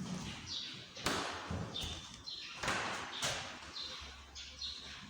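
Footsteps thudding on a stairway as people climb, in an irregular series of knocks, the sharpest about one, two and a half and three seconds in.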